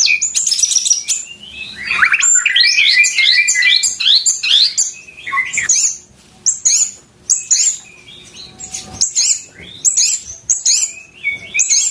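White-rumped shama (murai batu) singing loudly: rapid strings of varied high whistles, slurs and chattering notes, with short lulls about six and eight seconds in.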